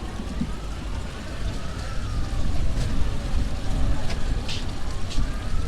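Siren wailing, its pitch rising and falling slowly and repeatedly, over a steady low rumble.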